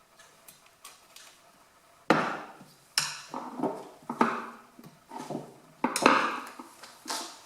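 About eight loud, irregular knocks and clanks, starting about two seconds in: the metal frame of a wood heater's glass door being worked on by hand, its retaining tabs bent inwards.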